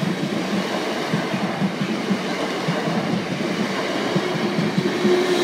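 Class 455 electric multiple-unit train passing close by, with a steady rumble and rapid clatter of its wheels on the track.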